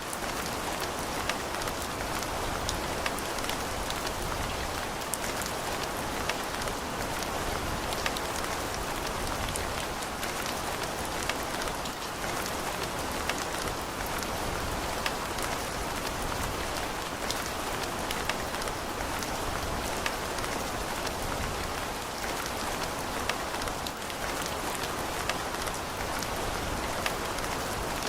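Steady rain falling, a dense even hiss with scattered sharp drops striking close by.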